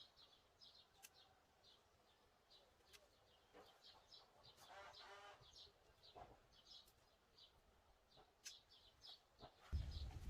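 Faint birdsong: a small bird repeating short high chirps, two or three a second, with a brief lower call from another bird about halfway through. Near the end a louder rustling noise comes in.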